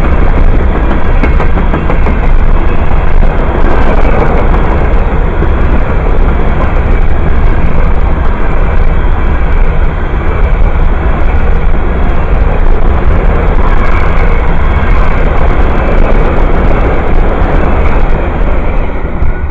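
Freight train of open-top hopper cars rolling past close by: a loud, steady rumble and rattle of steel wheels on the rails.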